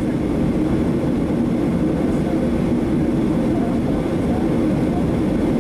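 Steady cabin noise of a Boeing 737-700 with its CFM56 jet engines running, heard from inside the passenger cabin as an even, loud rumble.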